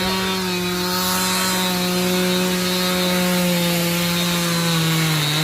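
Two-stroke chainsaw running at high revs while carving wood, its engine note holding steady and sagging slightly near the end as it works.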